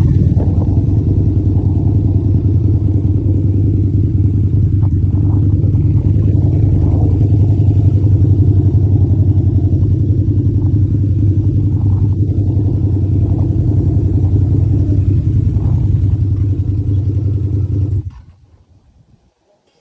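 Motorcycle engine running steadily, cutting off abruptly about eighteen seconds in.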